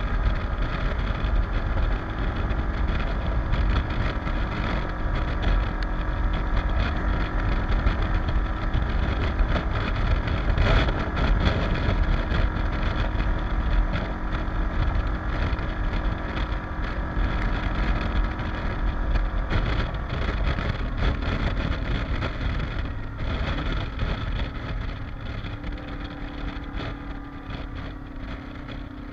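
Kawasaki KLE dual-sport motorcycle engine running under way, with wind on the microphone. Near the end the sound drops off and settles to a steadier, lower engine note as the bike eases off.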